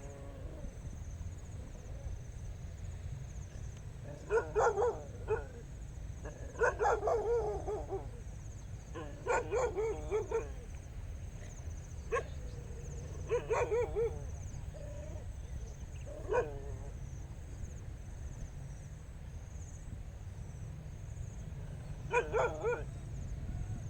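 An animal calling in short pitched bursts, about seven times with irregular gaps, over a steady low rumble and a steady high drone.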